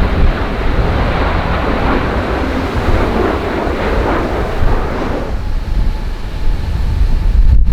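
Strong gusty wind buffeting the microphone, with a broad rushing noise over it that dies away about five seconds in, leaving the low wind rumble and a faint steady tone. A short dropout near the end.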